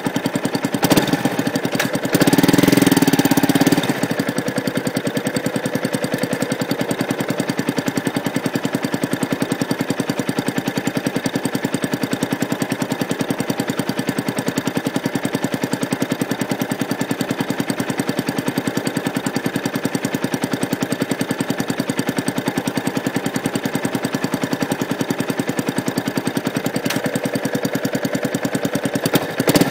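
Yamaha YZF-R125's single-cylinder four-stroke engine, running without its EGR valve, heard through a microphone fixed under the bike: it runs steadily at low revs with even firing pulses. A short, louder burst of throttle comes about two seconds in and lasts under two seconds.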